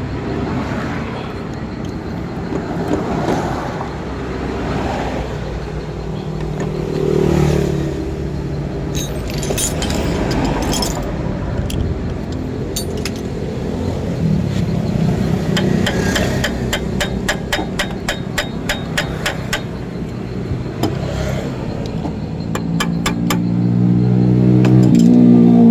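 Honda Fit's engine running, its pitch rising briefly about a quarter of the way through and again near the end as it is revved. Two spells of rapid sharp ticks come in the middle.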